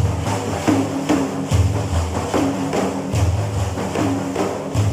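Frame drums with jingles, daf-style, playing a steady manqaba rhythm between sung lines: a deep beat about every second with lighter strokes and jingle rattles between.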